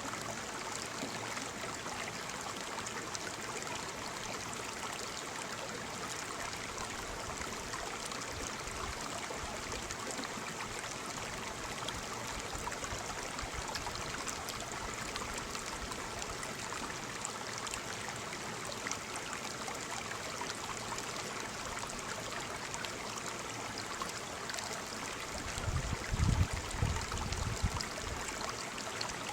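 Waterfall: falling water splashing steadily. A brief low rumble comes about 26 seconds in.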